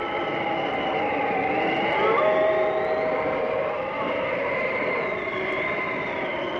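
Blizzard wind howling: a steady rush of noise with several thin whistling tones that glide slowly up and down in pitch.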